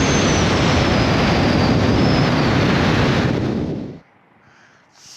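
Loud wind rushing over the microphone of a motorcycle camera at riding speed. It cuts off abruptly about four seconds in.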